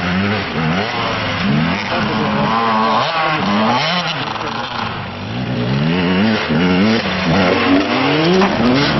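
Several motocross bikes running hard around the track, engines revving up again and again as they accelerate and shift, the rising notes overlapping one another.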